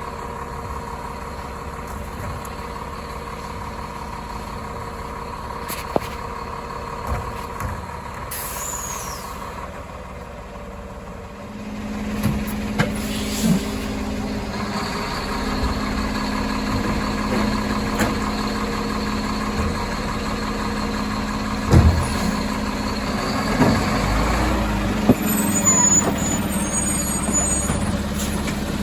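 Diesel garbage truck (Labrie Automizer automated side loader) idling, with a falling air hiss from the air brakes around nine seconds in. About eleven seconds in the engine speeds up and holds a higher steady note while the hydraulics work, with several sharp clunks.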